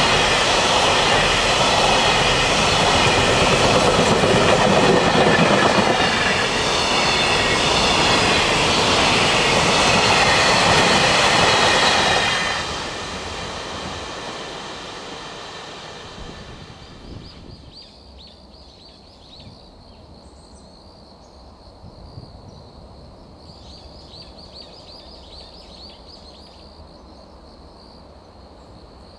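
A JR Freight container train's wagons roll past loudly, with steady high wheel tones over the rumble. About twelve seconds in the tail goes by and the sound dies away over the next few seconds. Faint insects then chirp steadily.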